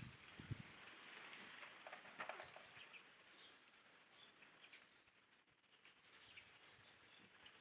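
Faint bird chirps over a quiet outdoor background, with a soft low thump about half a second in.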